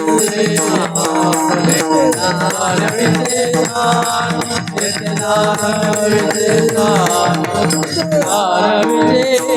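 Marathi devotional bhajan music: steady held instrumental tones with drum and jingling percussion, and a drawn-out melody that bends in pitch between the sung verse lines.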